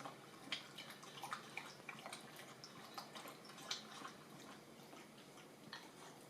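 Dog lapping water from a bowl: faint, irregular wet clicks, a few a second.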